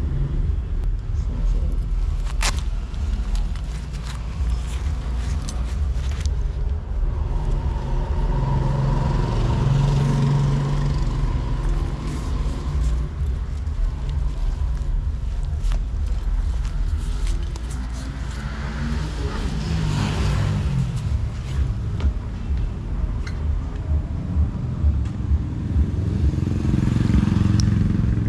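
Road traffic with a steady low rumble; motor vehicles pass closer about eight to twelve seconds in, around twenty seconds, and again near the end.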